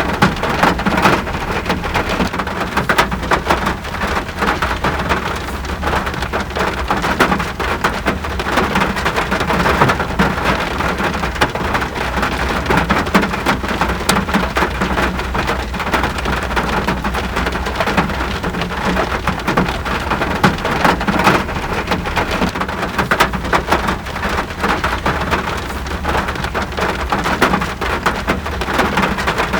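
Steady, dense rainfall, countless drops striking a surface, with an even low rumble underneath.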